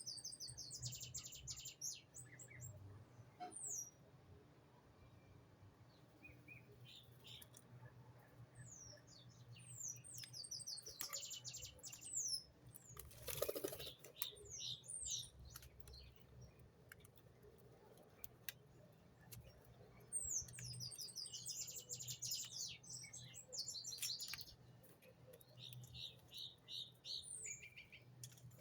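Small songbirds chirping in quick bursts of high, rapidly falling notes, with a short run of evenly spaced notes near the end. A brief rustling noise about halfway through, over a faint steady low hum.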